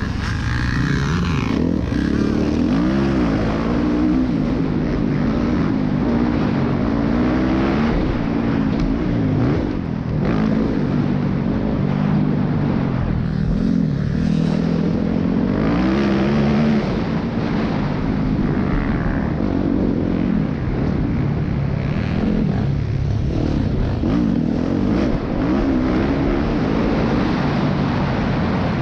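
Motorcycle engine running under way, its pitch rising and falling again and again as the rider accelerates and eases off, over a steady rush of wind noise.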